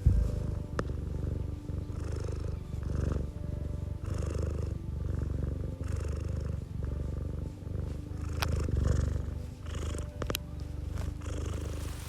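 Domestic cat purring close up, a low steady rumble that swells and eases with each breath about every second or so. A few faint clicks sound through it.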